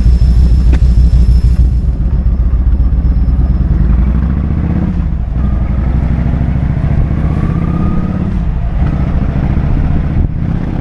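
Kawasaki Vulcan 2000's big V-twin engine running loud, with a deep pulsing exhaust note. It eases a little about four seconds in and drops out briefly a few times near the middle and end.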